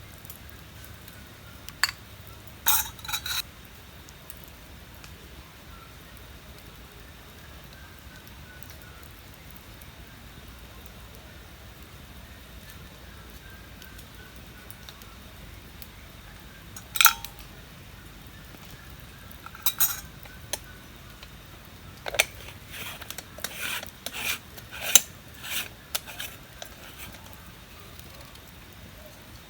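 Metal utensils clinking against camp cookware: a couple of clinks a few seconds in, single ones in the middle, and a quicker run of clinks and knocks near the end.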